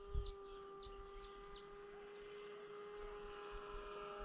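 A faint steady hum with several overtones, a few faint brief high chirps in the first couple of seconds, and a couple of low wind thumps on the microphone at the very start.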